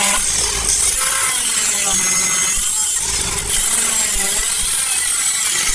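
Power tool cutting into the pickup's steel bodywork: a steady loud noise with a high whine that wavers up and down as the cut loads it, broken briefly about three and a half seconds in.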